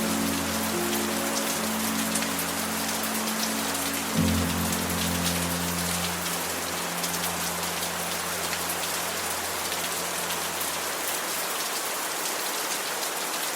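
Steady rain falling, with the last low notes of a song's instrumental ending under it: a chord struck about four seconds in rings and fades away, leaving only the rain near the end.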